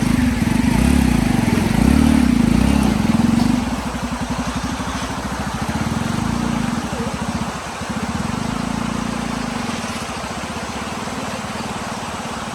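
Small engine running, working harder with rising and falling speed for the first few seconds, then settling to a steadier, lower speed.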